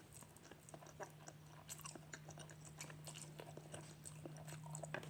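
Faint close-up chewing of spicy instant noodles: irregular soft wet mouth clicks and smacks, over a steady low hum.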